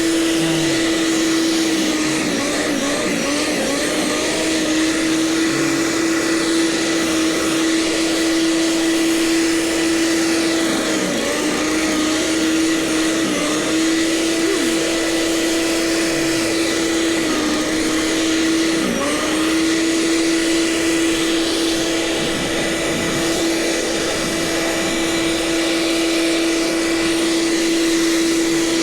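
Gasoline snowblower engine running steadily, its pitch dipping briefly several times in the middle stretch before settling back.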